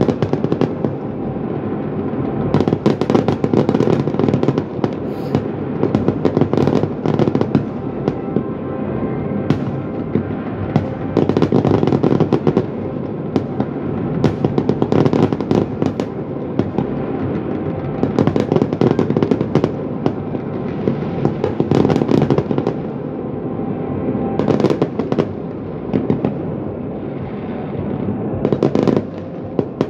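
Large fireworks display going off: clusters of sharp bangs and crackling come every second or two over a continuous rumble of explosions.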